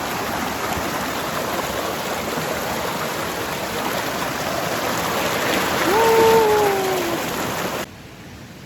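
Forest creek water rushing over rocks, swelling a little about six seconds in. A short pitched sound, falling slightly in pitch, cuts across the water near the middle of the swell. The water noise cuts off suddenly near the end.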